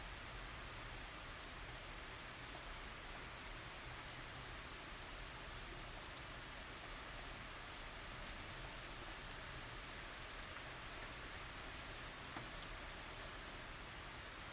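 Steady rain falling, an even hiss of rainfall with many small drops pattering on surfaces.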